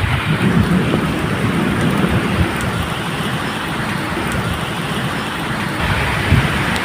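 Medium rain falling steadily, with a low, uneven rumble of thunder underneath.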